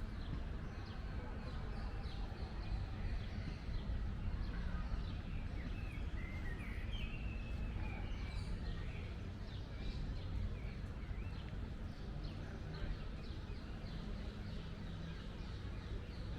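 Many birds chirping and calling over a steady low rumble, with a run of gliding, warbling calls about six to nine seconds in.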